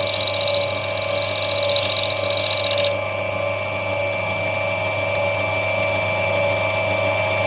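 Lapidary grinding machine running with a steady motor hum while an opal is rubbed back on the wheel. A loud high grinding hiss from the stone against the wheel cuts off about three seconds in, leaving only the motor running.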